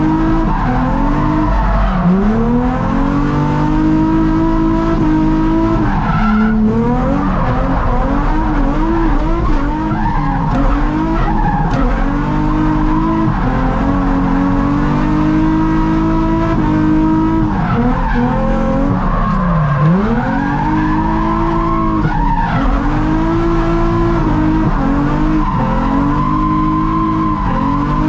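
Nissan 350Z's 3.5-litre V6 held at high revs while drifting, the revs dropping sharply and climbing back again several times, with tyres squealing and skidding.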